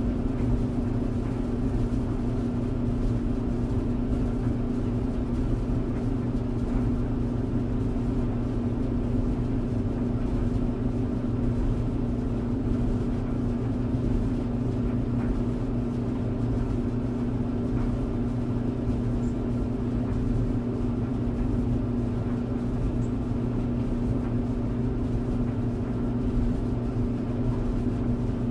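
Clothes dryer running: a steady low motor hum with the noisy rush of the tumbling drum.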